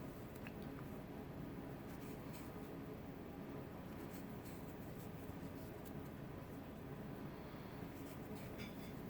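Faint rustling and light scratchy ticks of a crochet hook working yarn, over a steady low room hum.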